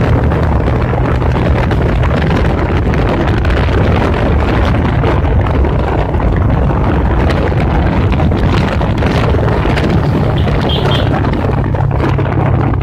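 Motorcycle engine running at a steady cruise under a loud, constant rush of wind on the microphone while riding.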